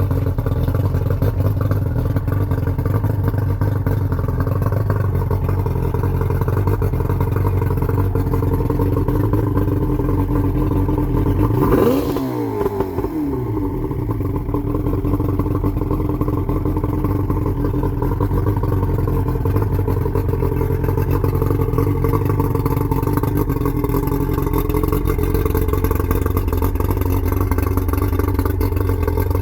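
Yamaha 115 hp V4 two-stroke outboard motor running steadily, with one quick rev up and back down about twelve seconds in.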